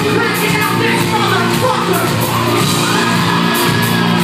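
Live post-hardcore rock band playing loud with distorted guitars, drums and cymbals, the singer's voice gliding over it and crowd yells mixed in, heard through a phone's microphone in a large hall.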